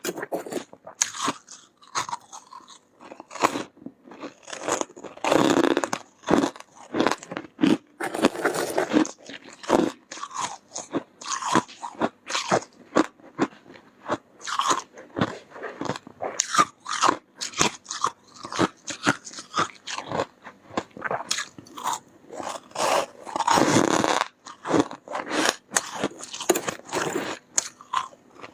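Close-miked biting and chewing of soft, powdery freezer frost: many quick, irregular crunches, with a few longer, louder crunchy chews.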